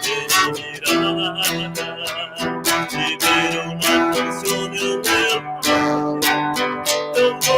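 Acoustic guitar strummed in a steady rhythm of chord strokes, an instrumental passage with no singing.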